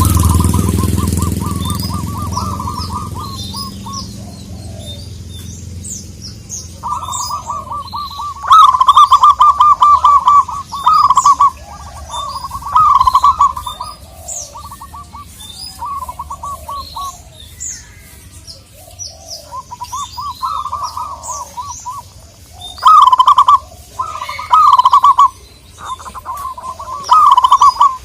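Zebra dove (perkutut) singing its rapid trilling coo, a run of quick pulsed notes repeated in bouts of one to two seconds, with small birds chirping high above it. A low rumble fades out over the first few seconds.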